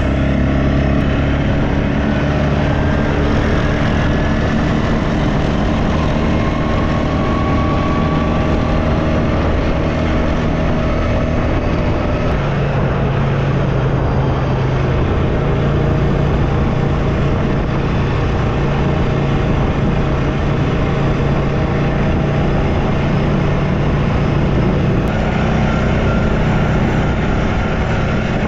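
ATV (quad bike) engine running under way at a fairly steady speed: a continuous loud drone with small shifts in pitch.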